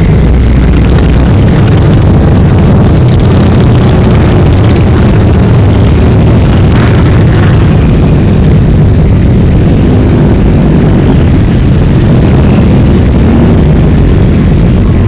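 A stream of motorcycles riding past, their engines loud and continuous.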